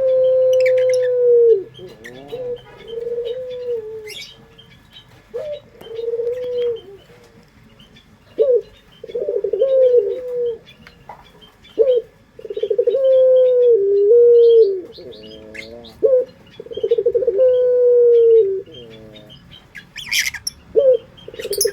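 Puter pelung (ringneck dove) cooing: a series of loud low coos, each a rolling, purring start that settles into a long held note dropping at its end, repeating every few seconds. Faint chirps of small birds sound between the coos.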